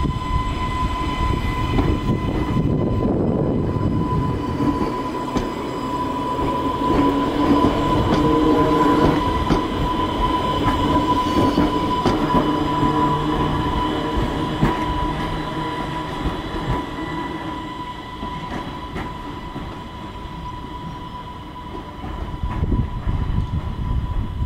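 Island Line Class 484 electric train moving through the station, its running rumble carrying a steady high whine. It grows louder toward the middle and fades over the second half.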